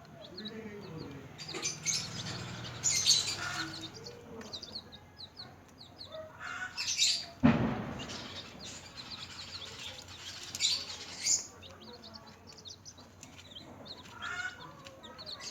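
Newly hatched chicks peeping continuously, a steady stream of short, high, falling peeps. Several louder bursts of rustling break in, and a single sharp thump comes about halfway through.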